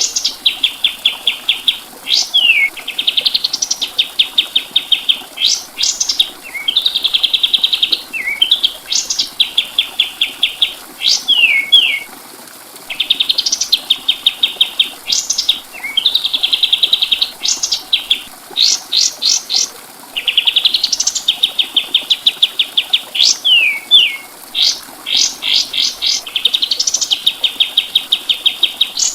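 Kapas tembak songbird singing almost nonstop. Its song is made of long runs of fast, evenly repeated notes, broken by quick upward-sweeping whistles and short falling slurs, with one brief pause about twelve seconds in.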